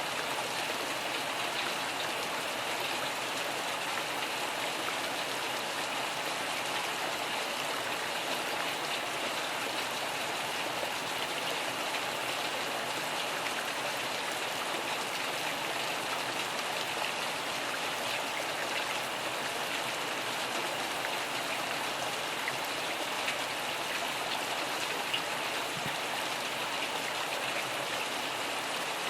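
Steady rainfall: an even, unbroken hiss of many drops.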